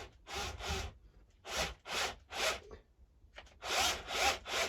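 Short rasping strokes in groups of three, about three a second with brief pauses between groups, as a T25 bolt is driven up into the hedge trimmer's aluminium housing with a hand tool.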